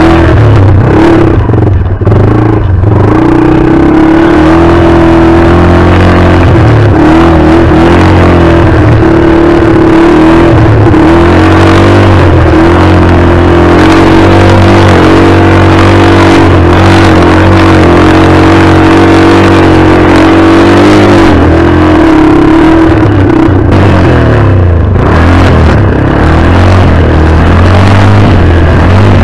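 Yamaha AG200's single-cylinder four-stroke engine running hard under load on a hill climb. It holds a fairly steady, loud pitch close to the microphone.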